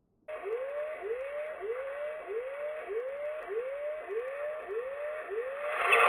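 A siren-like whooping tone, rising in pitch over and over at about one and a half whoops a second, over a steady hiss that starts suddenly. The sound grows louder near the end.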